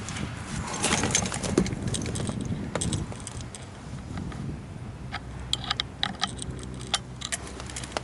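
Irregular metallic clinks and rattles of tools and parts being handled, over a steady low hum.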